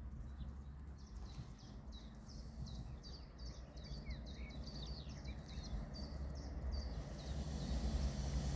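A bird singing a quick series of short chirps over a steady low rumble. Near the end the chirps stop, and the rising rumble and hum of an approaching train begin to build.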